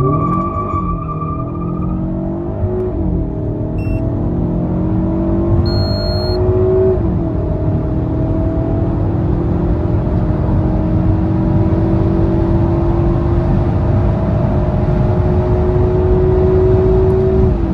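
A 2019 Alfa Romeo Giulietta Veloce's 1750 TBI turbocharged four-cylinder engine pulling hard under full acceleration. Its pitch climbs through the gears and drops at upshifts about three seconds in, about seven seconds in and near the end. In the long gear between the last two shifts it rises only slowly as speed builds.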